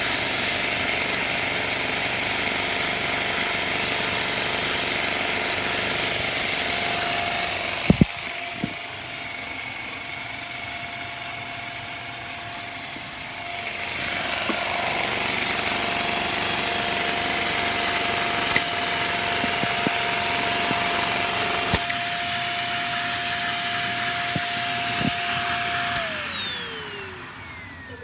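Lego butterfly vacuum engine running with a steady whine and a noisy rattle. Sharp knocks come about eight seconds in as pieces are fed in, the sound drops lower for a few seconds, then a few more clicks follow. Near the end it winds down, the whine falling in pitch as it fades.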